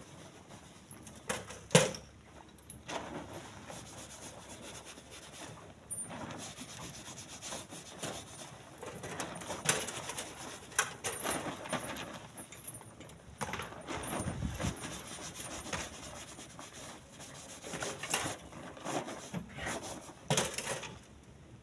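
Split stone being handled and loaded by hand into a truck bed: irregular scraping with scattered sharp knocks of stone on stone.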